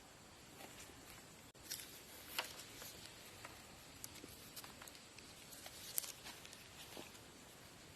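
Faint, scattered light clicks and rustles, a few sharp ticks among them, over a quiet hiss.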